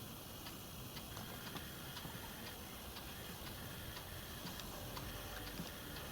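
Faint, regular ticking, about two ticks a second, over a low hiss.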